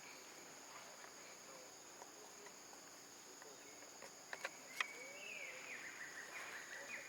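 Faint, steady high-pitched chirring of insects such as crickets. A few sharp clicks come a little past the middle, then a run of short repeated chirps starts about five seconds in.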